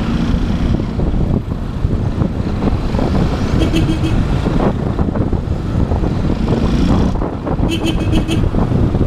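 Motorcycle engine running under way through city traffic, with heavy wind rumble on the helmet or bike camera's microphone. Twice, about four seconds apart, there is a short burst of rapid high-pitched chirping.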